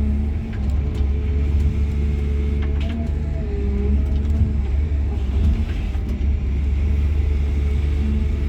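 Cat 323 GC excavator's diesel engine and hydraulics heard from inside the cab: a steady low rumble with tones above it that shift in pitch now and then.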